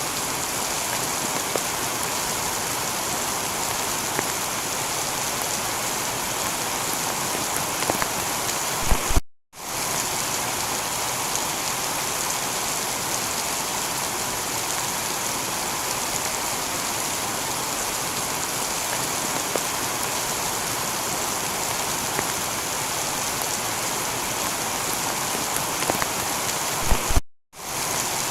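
Steady heavy rain falling on a tiled roof. The sound cuts out completely for a moment twice, about nine seconds in and near the end, each time just after a couple of sharp pops.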